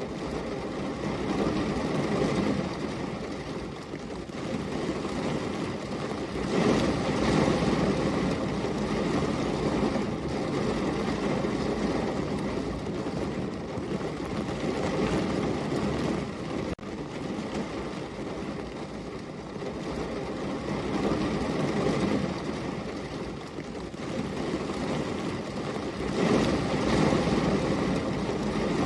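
Steady heavy rain, a dense even wash of noise that swells louder and eases back every few seconds.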